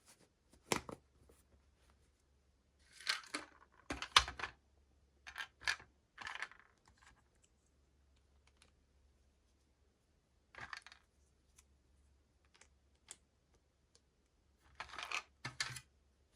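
Small toy pieces and packaging being handled: short clicks and brief rustles in a few scattered clusters, the loudest about four seconds in.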